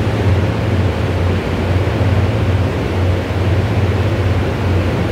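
Steady low hum and hiss of a commuter train at the station platform, with no distinct wheel, brake or horn sounds.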